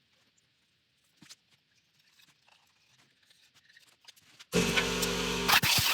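A few faint clicks from small parts being handled. About four and a half seconds in, a loud machine suddenly starts running with a steady, constant-pitch hum.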